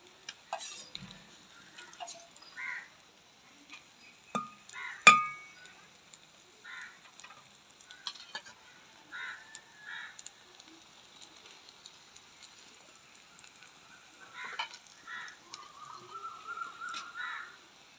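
Grated potato, onion and egg mixture frying in shallow oil in an aluminium wok, a faint sizzle, with scattered light clinks and one sharp knock about five seconds in.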